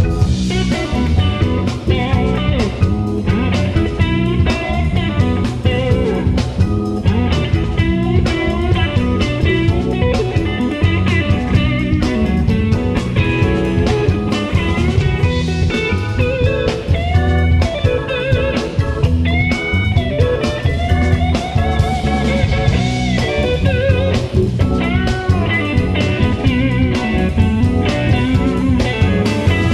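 Live blues band playing an instrumental break, with a guitar taking a solo full of bent notes over the bass and drums.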